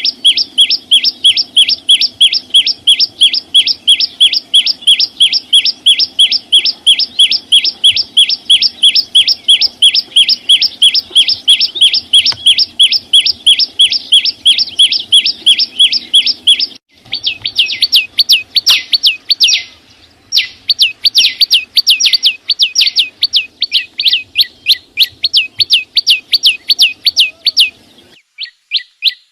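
A small songbird gives a fast, even series of sharp, high chirps, about five a second. The run breaks off briefly three times, near the middle, a few seconds later and near the end.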